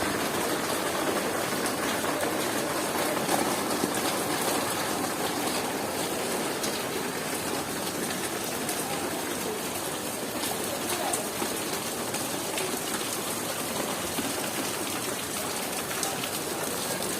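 Heavy rain falling steadily: a dense, even hiss of rain on the ground and surfaces.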